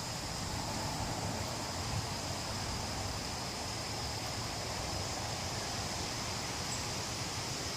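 Gusty wind blowing through trees, leaves rustling steadily, with a thin, steady high-pitched buzz of insects underneath.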